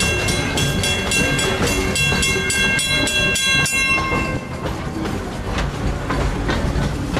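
A narrow-gauge steam train running, with a steady rhythmic clatter about three beats a second. Several high steady tones ring over it for the first four seconds, then stop.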